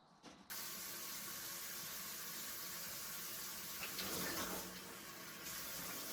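Water running from a tap into a sink, a steady rush that starts abruptly about half a second in.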